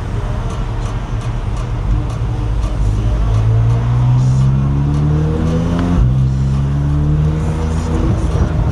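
C8 Corvette Z06's 5.5-litre flat-plane-crank V8 through its titanium exhaust, running steadily, then accelerating with a rising pitch from about three seconds in. A brief break at an upshift about six seconds in, then it pulls again.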